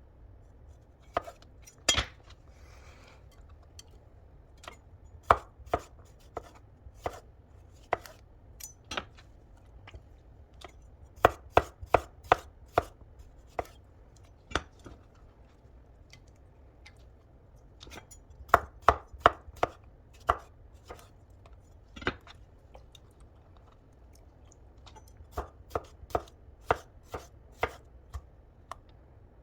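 Knife chopping food on a cutting board: sharp, irregular knocks in short runs of a few strokes, with pauses between.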